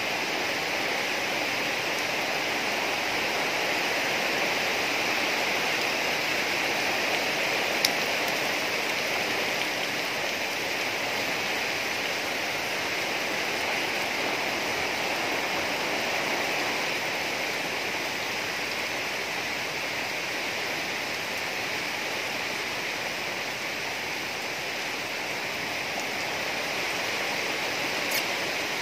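Heavy rain pouring steadily onto dense foliage and the ground, an even hiss, with water streaming off a roof edge. A brief sharp tick about eight seconds in and another near the end.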